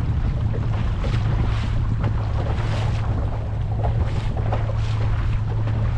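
Boat motor running at trolling speed, a steady low hum, with water splashing against the hull every second or so and wind on the microphone.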